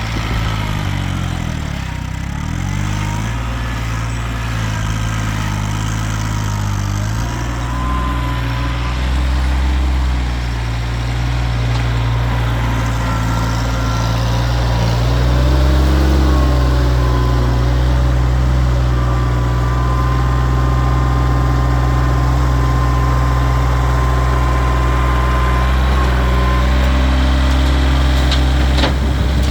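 Kioti tractor's diesel engine running under working load. Its speed dips and recovers about two seconds in and changes again a few times, with a thin higher whine over the engine.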